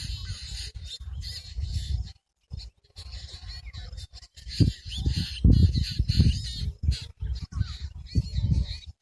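Birds calling, with repeated short chirps and calls over a strong low rumble. The sound comes in choppy stretches that cut off abruptly, with a brief silence a little over two seconds in.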